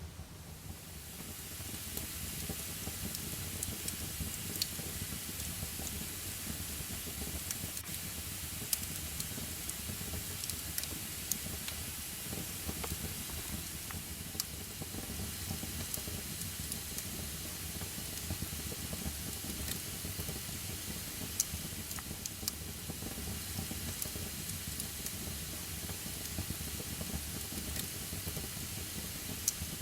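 Wood fire burning: a steady hiss, which fades in about a second in, with scattered sharp crackles.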